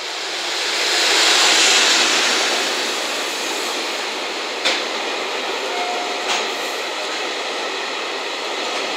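JR Freight EF210 electric locomotive passing close at speed, loudest a second or two in, followed by the steady rolling rumble of its container wagons. Two sharp clacks come a second and a half apart midway through.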